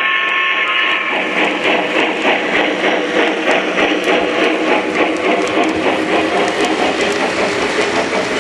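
Model train running on its track: a steady motor hum with a fast, uneven clicking of wheels over the rail joints. A guitar tune fades out in the first second.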